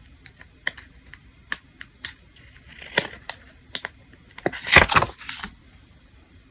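Small hard objects clicking and clattering as they are handled on a tabletop: a run of light separate clicks, then a louder rattling cluster near the end.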